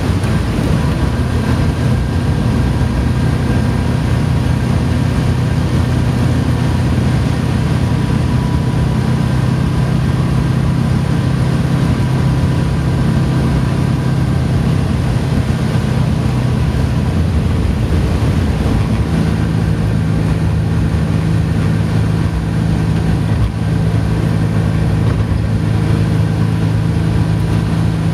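Morris Minor's Marina 1300 four-cylinder engine pulling steadily while driving, heard from inside the car over road and wind noise. The engine note changes pitch about two-thirds of the way through, then holds steady again.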